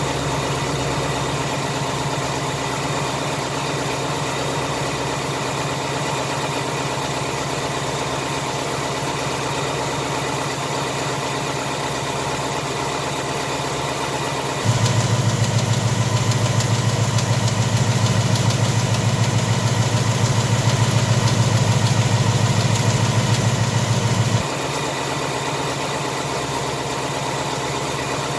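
2018 Mustang GT's 5.0 V8 idling steadily on a cold start, with no 'BBQ tick' tapping audible. About halfway through, the sound grows louder and fuller in the low end for around ten seconds, then drops back.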